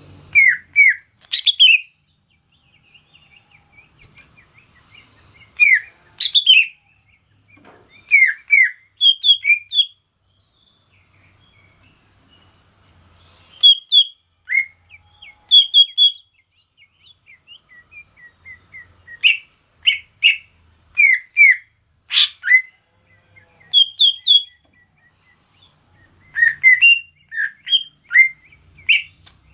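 Cucak ijo (green leafbird) singing: short phrases of loud, clear whistled notes that slide sharply in pitch, with pauses of a second or more between phrases. A faint steady high hiss runs beneath.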